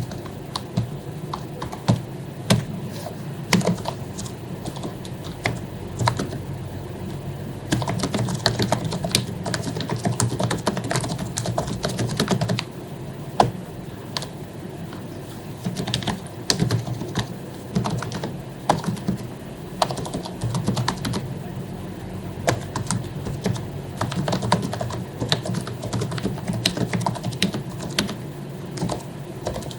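Typing on an HP membrane keyboard with lubricated keycaps: quick runs of soft keystroke clicks, with a few short pauses and the odd louder stroke.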